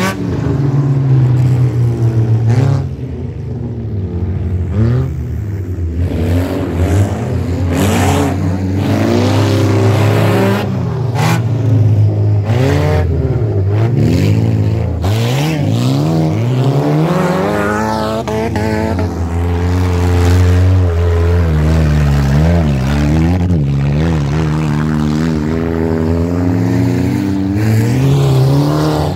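Wreck-race cars' engines revving hard, their pitch climbing and dropping repeatedly through gear changes as they race past. A few sharp bangs come between about six and fourteen seconds in.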